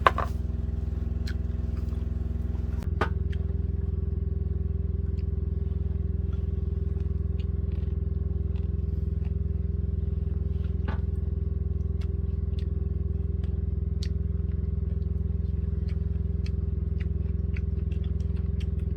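An engine idling steadily, with scattered light clicks and taps over it.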